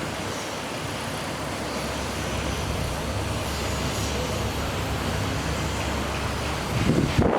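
The water truck's International MaxxForce DT diesel running, under a steady rush of noise with a low rumble that builds through the middle. Near the end it changes abruptly to a louder, choppier sound.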